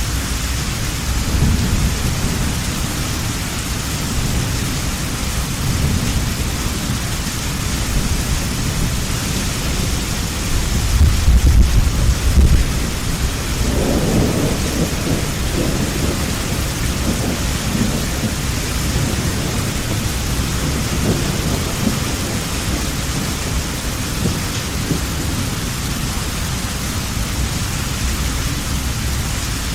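Heavy rain falling steadily with rolling thunder; one low rumble builds and peaks about eleven seconds in, then fades into the rain.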